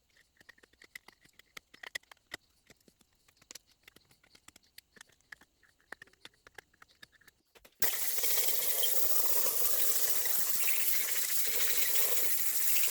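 Faint, scattered scraping clicks of a hand deburring tool on the edges of a freshly machined Duramax cylinder head. About eight seconds in, a compressed-air blow gun starts hissing steadily, blowing machining chips off the head.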